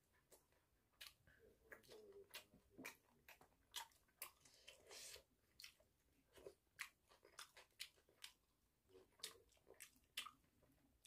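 A person chewing and biting chicken close to the microphone: quiet, irregular crunches and wet mouth clicks.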